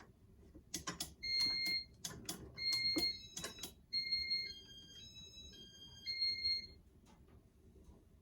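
Casablanca Inteli-Touch fan control keyed into demo mode: a run of button clicks with short electronic beeps, then a brief beeping tune that steps up and down in pitch.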